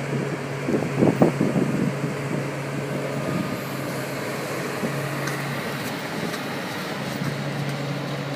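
Crane truck's engine running steadily with a low hum, with a short burst of louder knocking noise about a second in.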